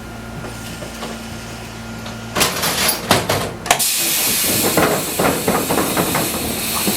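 Fukui Railway 200-series car standing with a steady hum, then its air-operated doors open: a burst of air and clatter about two and a half seconds in, a sharp clack, and then a steady hiss of compressed air with light rattling.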